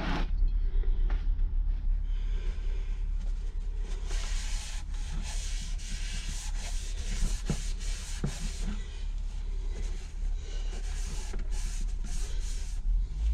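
Irregular rubbing and scraping on metal, with a few light knocks, as the freshly honed cast-iron cylinder of a Briggs & Stratton engine block is wiped out and handled for inspection. A steady low hum runs underneath.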